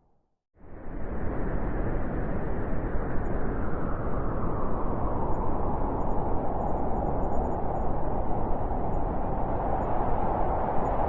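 Blizzard wind blowing steadily as a dense, even rush. It fades in quickly from a brief silence at the start, then holds steady.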